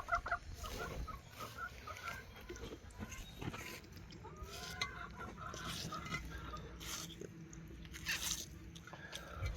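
Chickens clucking softly now and then, with short crunching sounds in between.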